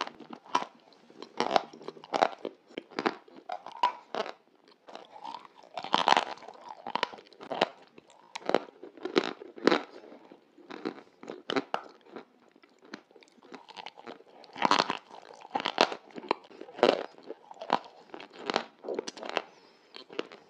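Close-miked wet chewing and lip smacking through a mouthful of soft white cream: a quick, irregular run of short sticky, squelching mouth sounds, several a second.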